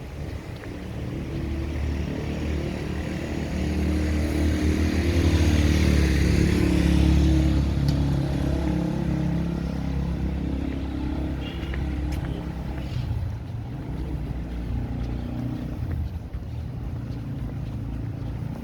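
A motor vehicle's engine running close by, growing louder with tyre hiss to a peak about six or seven seconds in, then easing off while the engine keeps running.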